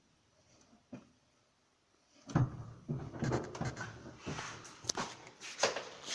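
Clutch pedal on a VAZ-2112 being worked after fitting a bearing-type clutch-cable lever, with no squeak: near silence with a faint click at first, then an irregular run of knocks and clunks from about two seconds in.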